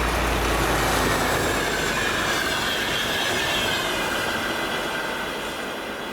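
Train running past on the rails with a high, drawn-out wheel squeal that sags slightly in pitch; the sound fades slowly toward the end.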